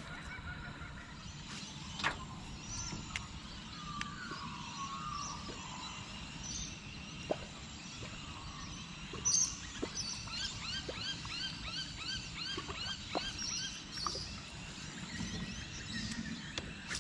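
Birds calling outdoors: a run of quick, repeated rising chirps, about two or three a second, over a steady low rumble, with a few sharp clicks scattered through.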